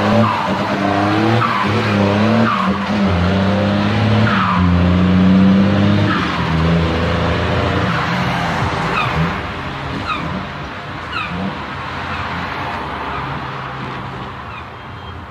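Leyland Clydesdale water truck's diesel engine running, its pitch rising and falling with the revs, loudest about five seconds in and easing off towards the end. Short high squeals recur every second or so over the engine.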